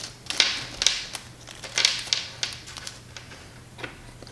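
Small parts being handled on a bench: several short rustles, like a plastic parts bag, with light clicks of small hardware, over a faint steady hum.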